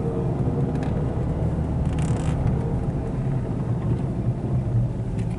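A car's engine and road noise heard from inside the cabin as a steady low rumble.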